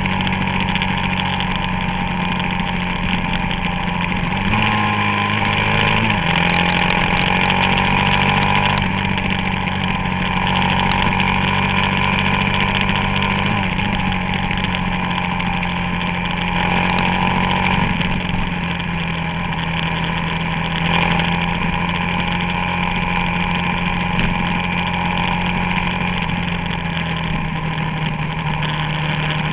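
Suzuki DR-Z400SM's single-cylinder four-stroke engine running at low, steady revs, its note stepping up and down a few times with the throttle.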